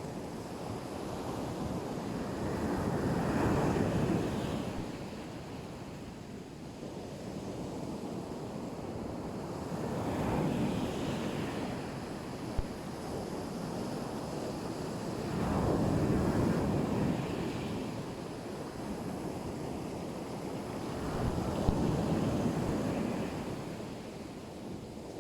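Black Sea waves breaking and washing onto the shore, the surf swelling and easing four times about six seconds apart, with wind on the microphone. Two brief clicks about halfway and near the end.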